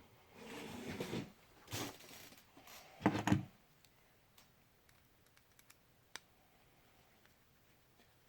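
Small RC helicopter tail parts and hand tools being handled on a workbench: a few short rustling, scraping noises, the loudest about three seconds in, then scattered light clicks.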